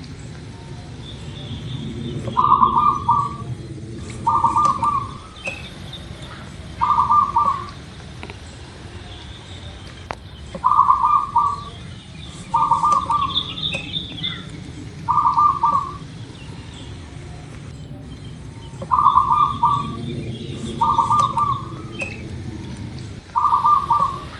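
Zebra dove (perkutut) cooing: nine short, trilled coo phrases repeated every two seconds or so. Fainter high chirps from other small birds and a steady low background rumble underneath.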